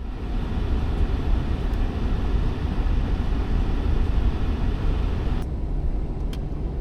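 Steady low rumble of a car on the move. The higher hiss drops away suddenly about five seconds in, followed by a couple of faint clicks.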